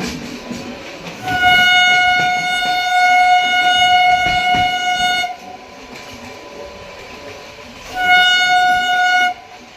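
Train horn sounding a long blast of about four seconds, then a short blast of about a second, over the running noise of the moving express train.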